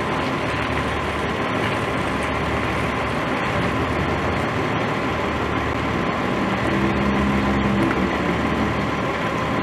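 Vehicle engine idling, a steady rumble with a faint constant whine; a second pitched drone comes in briefly about seven seconds in.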